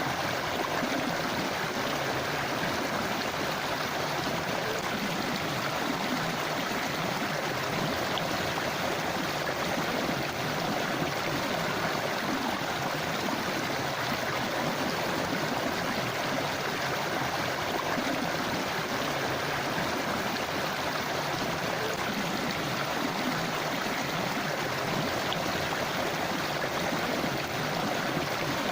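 Forest river flowing over rocks: a steady rushing and babbling of water that keeps an even level throughout.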